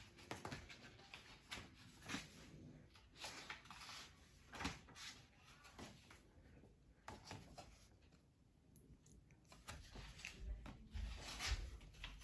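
Faint, scattered rustles and light clicks of things being handled, with a low rumble building near the end.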